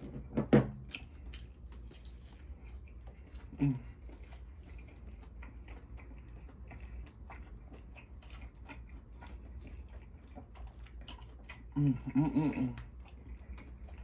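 Close-miked chewing and mouth smacking of a mouthful of steak, with many small wet clicks and one sharp click about half a second in. Short hummed "mm" sounds of enjoyment come a few seconds in and again near the end.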